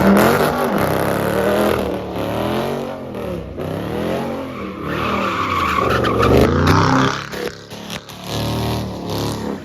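A car's engine revving up and down over and over while its tyres squeal as it slides in donuts.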